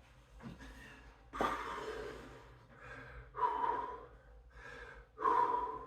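A man breathing hard during a set of exercise repetitions: three loud, forceful breaths about two seconds apart, with fainter breaths between them.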